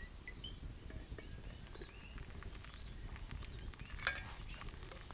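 Faint, short chirping calls of small wild birds, repeating irregularly, with a few light ticks over a low steady rumble.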